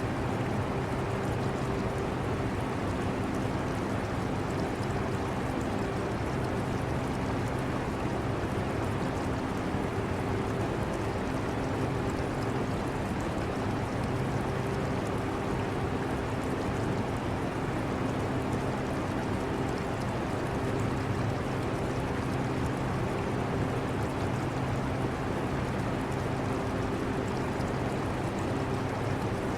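Portable air conditioner running with a steady hum, mixed with the trickle of aquarium water.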